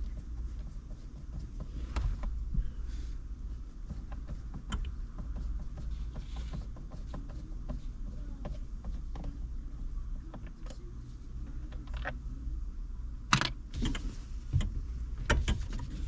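Scattered metallic clicks and clatter of hand tools and parts being handled while working on a car's steering column, with a louder burst of clatter near the end, over a low steady hum.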